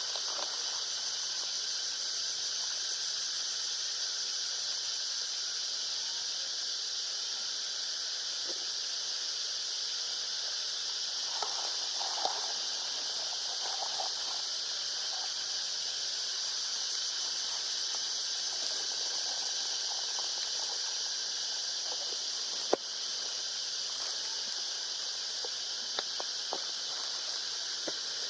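Steady high-pitched hiss of outdoor ambience, with a few faint short calls around the middle and a single sharp click a little after 22 seconds in.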